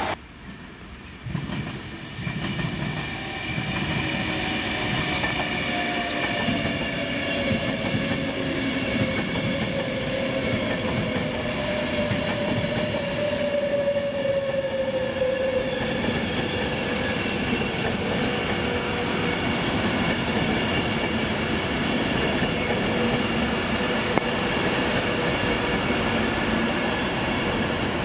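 Virgin Trains Class 390 Pendolino electric trains running through the station. Steady rail and wheel noise rises after a brief quieter start, with several steady high whines and a lower tone that slowly falls in pitch over several seconds.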